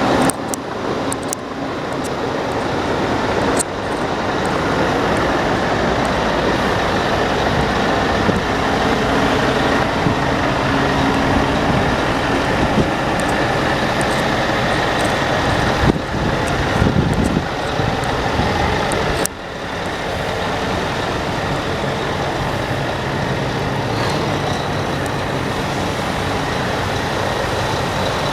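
Scania R440 tractor unit's six-cylinder diesel engine running steadily, with abrupt level changes a few seconds in and about nineteen seconds in.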